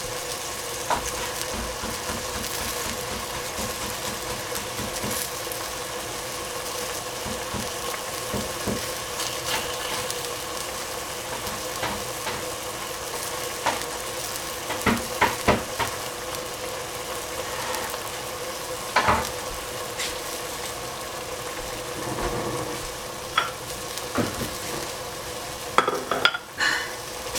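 King oyster mushroom slices sizzling steadily in a stainless steel pot over the flame, under a faint steady hum. A few scattered clicks and knocks come through, a cluster of them near the end.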